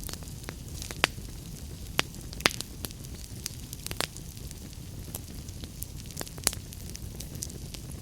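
Wood fire crackling in a fireplace: a steady low rumble and hiss with irregular sharp pops and snaps, a few louder ones about one, two, two and a half, four and six and a half seconds in.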